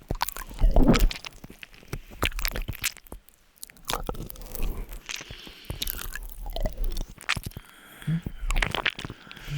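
Close wet kissing sounds and lip smacks, a quick irregular series of them.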